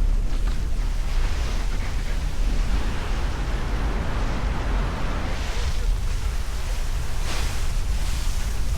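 Strong wind buffeting the microphone with a heavy, steady rumble, over the rush of water along a sailing catamaran's hulls at speed; the hiss swells twice, about five and a half and about seven seconds in.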